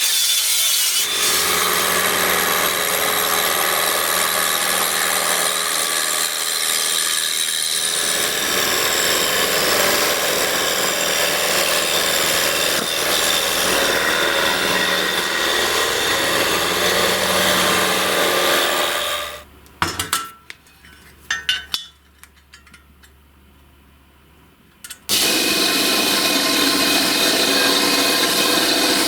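A power tool running steadily under load on a workpiece, stopping about two-thirds of the way through for several seconds of much quieter sound with a few knocks, then starting again.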